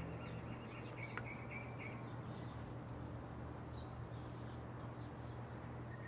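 Birds chirping faintly over a steady low hum, with a single sharp click about a second in.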